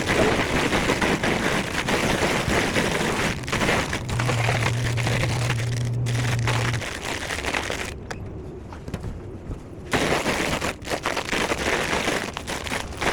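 Plastic snack bags crinkling and rustling as they are handled, dense and continuous, with a brief lull about two-thirds of the way in. A steady low hum sounds for a few seconds in the middle.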